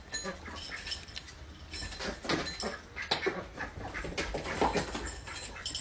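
A dog making a series of short, irregular vocal sounds.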